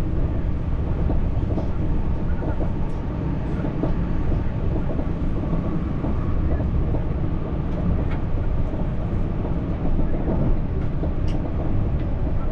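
French TER regional train running along the track, heard from inside the carriage: a steady rumble of wheels on rails with a few faint clicks.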